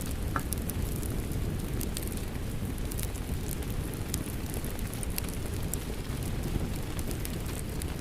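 Ambient mix of steady rain and a crackling wood fire, a dense low rumble under scattered sharp pops and crackles.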